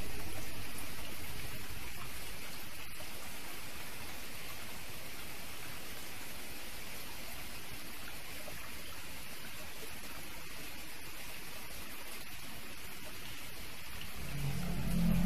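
Steady, even hiss, rain-like, slowly fading at first. Near the end a low hum begins to swell.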